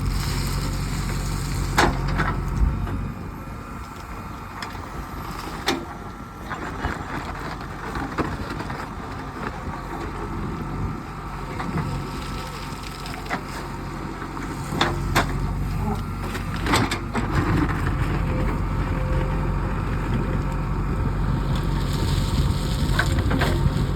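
Heavy diesel machinery running steadily, with scattered sharp knocks and clanks. The engine is quieter in the middle and grows louder again about fifteen seconds in.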